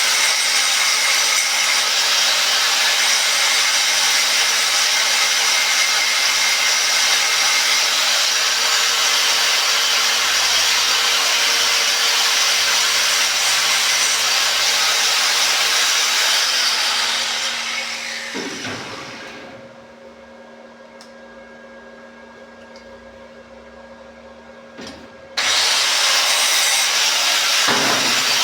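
Angle grinder running under load, grinding down the weld on a repaired padlock. About two-thirds through it is switched off and spins down. After a few quieter seconds there is a click and it starts again at full speed.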